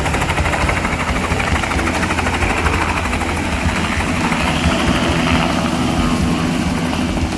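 Helicopter running, a steady rapid rotor chop over the engine.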